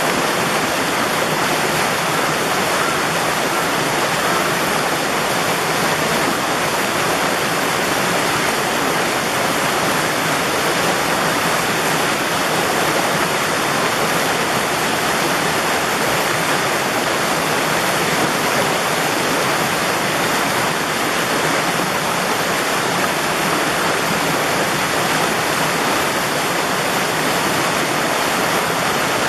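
Mountain valley stream rushing over rocks: a steady, even rush of water with no change throughout.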